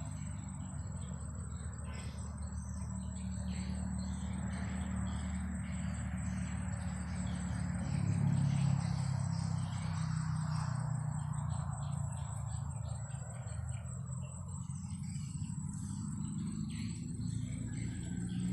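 An insect trilling on one steady high pitch, under wind buffeting the microphone with a low rumble that rises and falls in gusts, with faint short chirps.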